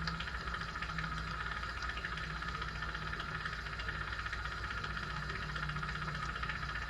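Steady machine hum with a continuous hiss, the hum swelling and fading slightly.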